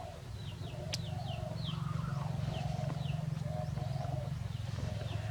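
Small birds chirping: short, high, falling chirps repeated every half second or so, over a steady low hum.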